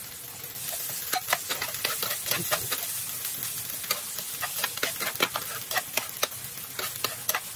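Garlic and red onion sizzling in hot oil in a frying pan as a spatula stirs them, with frequent sharp scrapes and taps of the spatula against the pan over a steady hiss.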